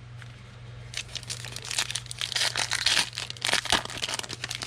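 Foil wrapper of a football trading-card pack crinkling and tearing as it is opened, a dense crackle starting about a second in.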